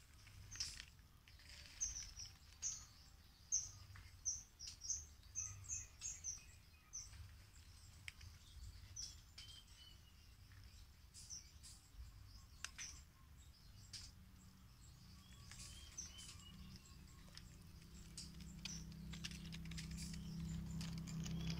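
A small bird calling a quick run of short, high, slightly falling chirps for a few seconds near the start, with a few fainter chirps later on. Scattered light clicks and rustles, and a low hum that grows louder toward the end.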